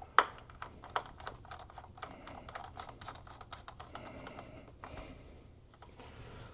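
Light, irregular clicks and taps of hands handling small parts and cables inside an opened iMac, with one sharper click just after the start and another about a second in.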